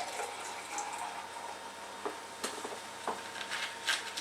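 Pepsi poured into a glass and fizzing, a faint hiss with scattered small ticks and pops.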